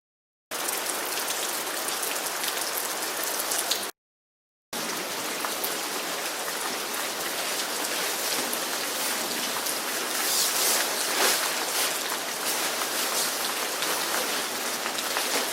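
Steady rain falling, an even patter of drops, cutting out to silence twice, briefly, near the start and about four seconds in.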